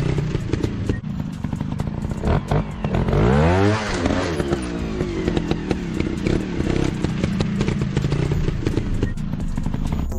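Motorcycle engine running, with one quick rev about three to four seconds in where the pitch climbs and then drops, and clattering knocks throughout.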